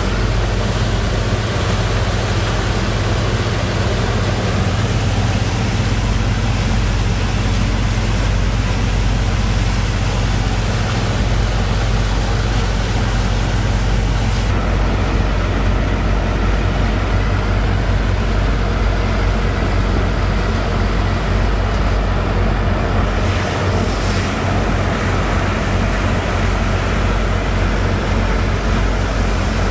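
Sand boat's pump engine running steadily and held back from full throttle because of the debris in the sand, a deep hum under a dense rushing noise. About halfway through, the high hiss thins out.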